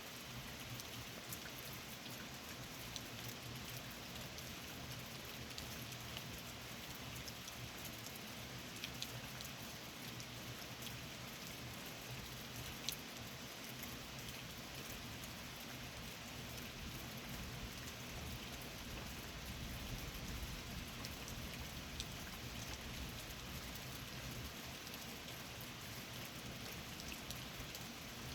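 Steady rain falling during a summer thunderstorm, with scattered sharp ticks of individual drops striking a nearby surface.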